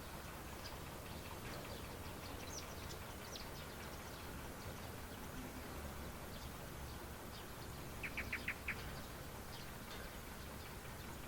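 Birds chirping with scattered short calls over a steady faint background hiss. About eight seconds in comes a quick run of about five louder chirps.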